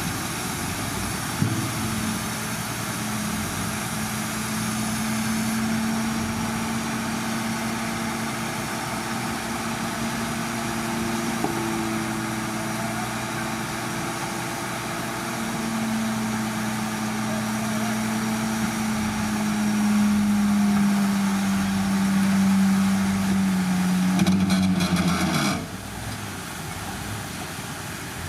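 Heavy diesel engine of earthmoving machinery running steadily. Its pitch sags slowly in the second half, and about 25 seconds in it drops off sharply to a quieter running sound.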